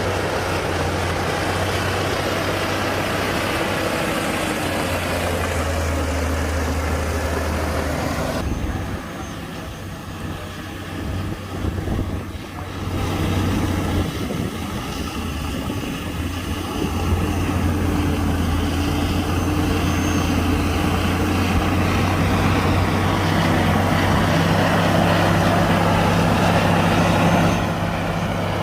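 Diesel engines of heavy earthmoving machinery running steadily. The sound drops off for a few seconds about a third of the way in, then picks up again and grows louder in the second half.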